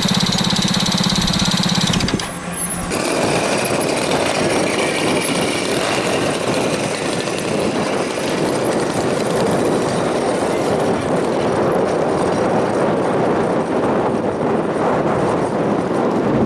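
Giant-scale RC model aircraft gas engines running. A loud, close engine with a steady pitch plays for about two seconds and breaks off abruptly. It gives way to a steady, rougher engine drone for the rest of the time.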